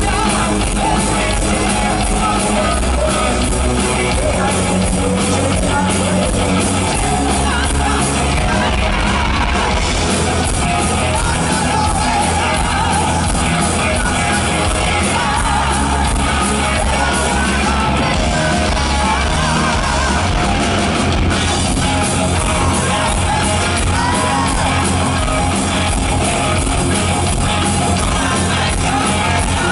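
A heavy metal band playing live, with singing over loud distorted guitars, bass and drums, echoing in a large hall.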